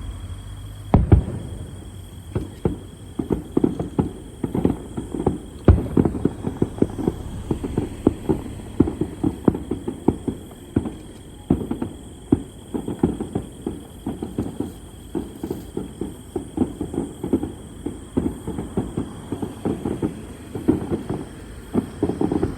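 Fireworks going off: two heavy booms, about a second in and near six seconds in, then a rapid string of bangs and pops, several a second, one after another.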